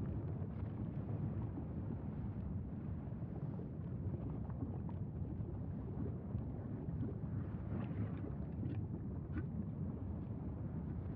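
Wind buffeting the microphone as a steady low rumble, with a few faint ticks about eight to nine seconds in.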